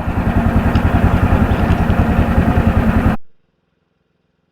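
An engine running with an even, rapid pulse, then the sound cuts off abruptly about three seconds in, leaving near silence.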